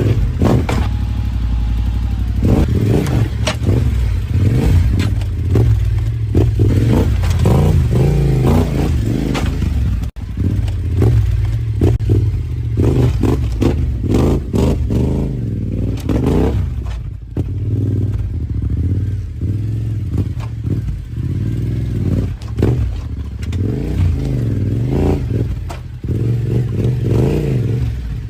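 Motorcycle engine revving up and down over and over, with clattering and scraping knocks.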